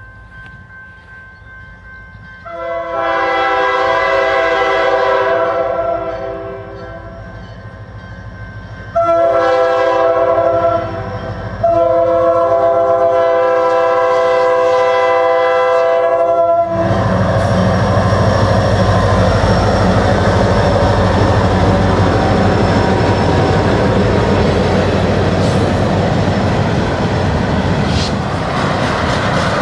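Vermont Railway GP40-2 diesel locomotive's horn sounding a chord of several tones in three blasts for a grade crossing: a long one, a shorter one, then a long one. About halfway through the locomotives reach the crossing and pass close, and the freight cars roll by with a loud, steady rumble and wheels clicking over rail joints.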